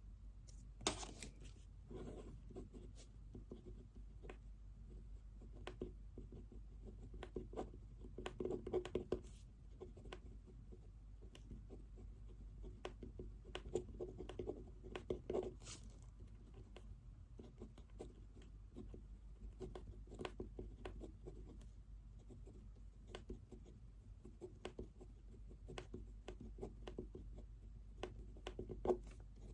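Pen writing on paper: quiet, irregular scratching strokes with a few sharper taps, over a low steady hum.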